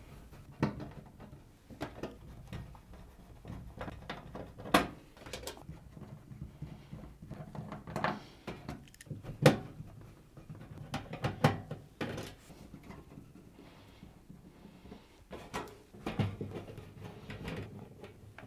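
Phillips screwdriver undoing the screws on a washing machine's rear panel: irregular clicks, taps and scrapes of the driver and screws against the panel, with a few sharper knocks.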